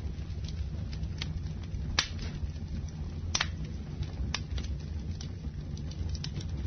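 Campfire burning: a steady low rumble with sharp crackles and pops about once a second, the loudest about two seconds in.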